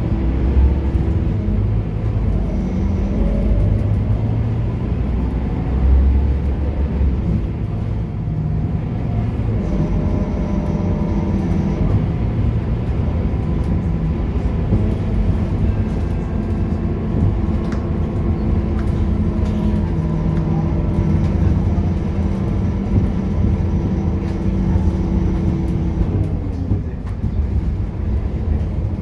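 Scania K230UB bus's diesel engine and ZF automatic gearbox running under way. The engine note shifts several times in the first stretch, holds steady through the middle, then drops near the end and starts to climb again.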